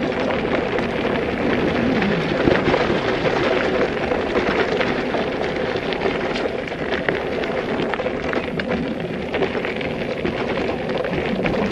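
Bicycle riding noise: tyres rolling over a rough surface, a steady crackle dense with small clicks and knocks.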